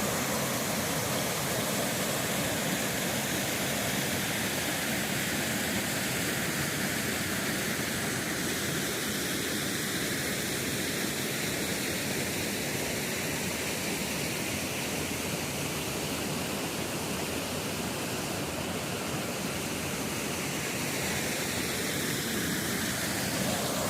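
Waterfall rushing, a steady even roar of falling water whose tone drifts slowly.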